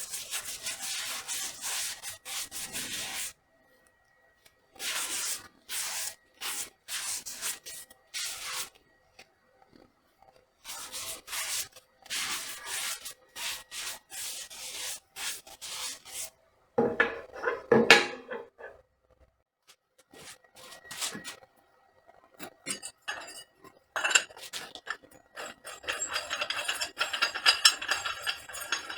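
Quick back-and-forth rubbing strokes of a hand tool working a workpiece, like filing or sanding, in several runs broken by short pauses. A louder, lower scrape comes about two-thirds of the way in, and a denser scratchy rubbing fills the last few seconds.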